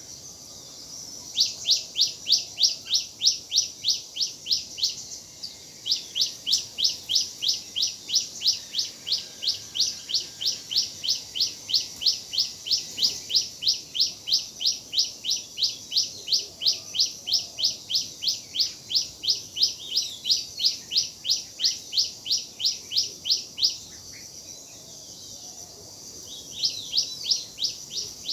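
A bird calling a long, steady series of high, sharp chirps, each dropping in pitch, at about three or four a second. The series breaks off briefly near the start, again around five seconds in, and for a couple of seconds near the end.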